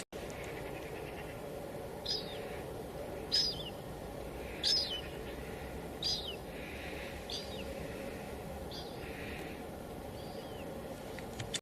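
Steady hiss of light drizzle with a bird calling over it: six short chirps that slide down in pitch, about one every second and a half, plus a couple of fainter ones.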